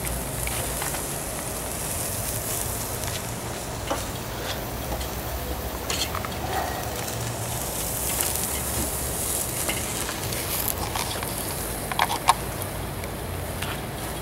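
Food sizzling on a grill: a steady hiss with a few short pops and clicks here and there.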